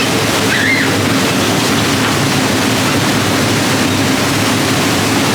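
Loud steady rushing noise, like running water or wind, with a brief high squeak about half a second in.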